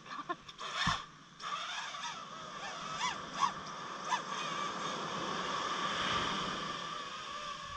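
Birds calling: several short, harsh calls about three to four seconds in, over a steady high-pitched hum, with a knock about a second in.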